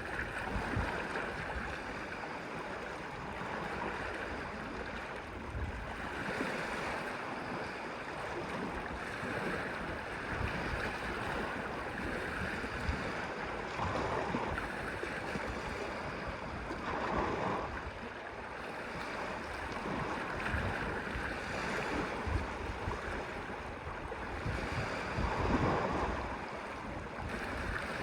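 Waves washing in on a shore with wind on the microphone: a steady wash with a few louder surges.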